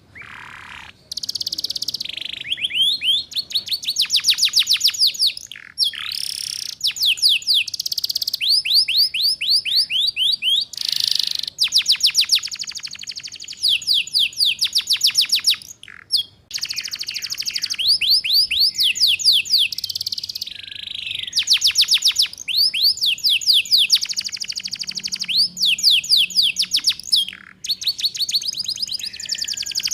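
Domestic canary singing in the rolling 'ngeriwik' style: phrases of fast repeated falling notes, trilled in runs a few seconds long and broken by short pauses.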